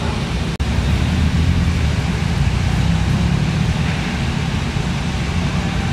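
Low, steady rumble of a car's engine and exhaust as it drives slowly past, cutting out briefly about half a second in.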